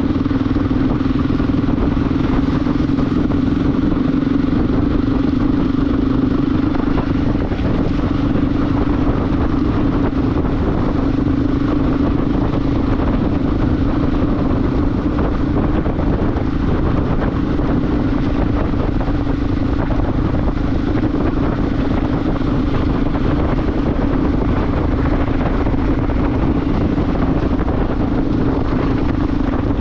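Motorcycle engine running at a steady speed, a constant drone that holds its pitch, under an even rush of wind and road noise.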